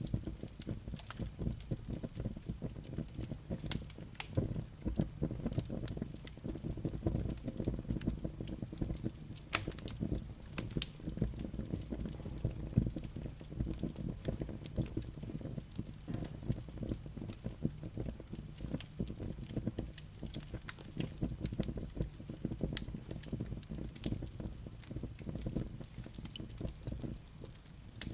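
Wood fire burning in a fireplace: a steady low rumble of flames with frequent irregular crackles and pops from the logs and embers.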